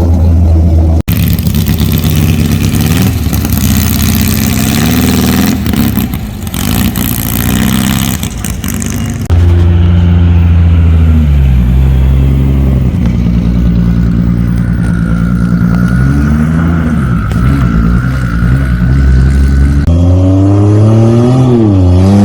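Cars accelerating away one after another, their engines revving loudly. Near the end the engine pitch dips and climbs again as one car revs.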